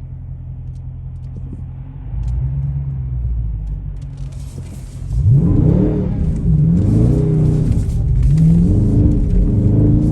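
V8 muscle car engine cruising low and steady, then accelerating hard about five seconds in, its pitch climbing and falling back several times through gear changes.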